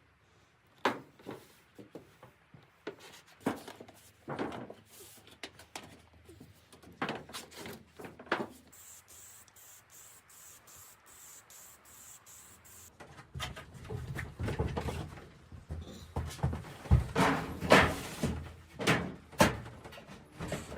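Scattered knocks and clicks of small wooden pieces being handled and set in place during handicraft building work. The knocks are sparse at first and come thicker and louder for the last seven seconds or so.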